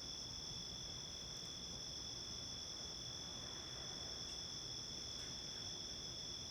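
Summer-night insect chorus: a steady, unbroken high-pitched trilling at two pitches, over a faint low background hiss.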